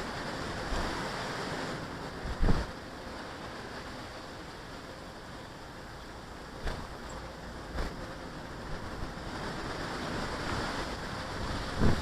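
Wind gusting over the microphone in surges, with a few dull low thumps: one about two and a half seconds in, two more around seven to eight seconds, and a stronger cluster near the end.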